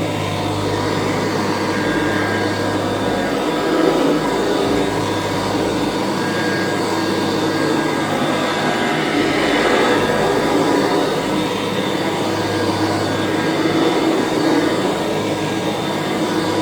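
Kirby Classic III upright vacuum cleaner running steadily: a constant low motor hum under a rushing airflow noise that swells and eases slightly a few times.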